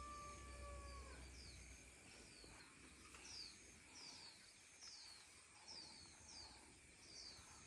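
A small bird calling faintly and repeatedly: short, high, falling chirps, mostly in pairs, about once a second. A faint held tone stops about a second in.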